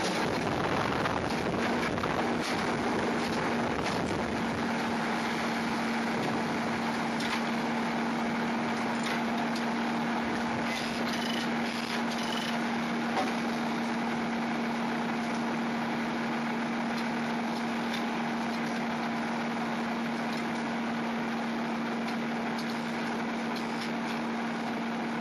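Steam-powered sawmill machinery running: a steady mechanical din, with a steady hum that sets in about a second and a half in and holds.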